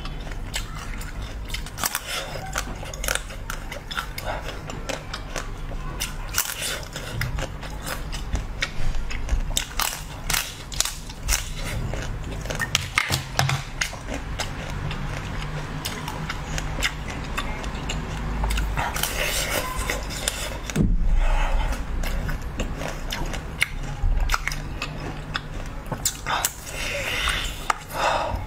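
Close-up biting and chewing of a watermelon slice covered in a glossy pink coating: a steady run of many sharp crunching clicks.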